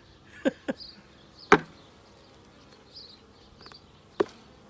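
Honeybees buzzing around an opened hive, with four sharp knocks from hive parts being handled: two close together about half a second in, the loudest about a second and a half in, and one near the end.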